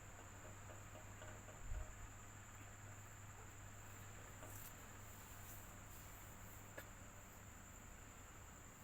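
Faint, steady electric fan noise: a low hum under a continuous high-pitched tone, with one low thump about two seconds in.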